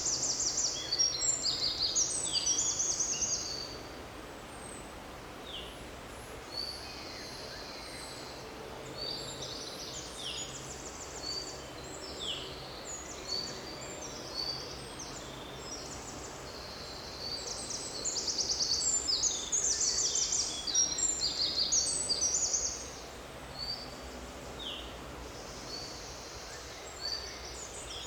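Songbirds singing: many high, quick chirps and trills, with two louder stretches of rapid, dense song, one at the start and one past the middle.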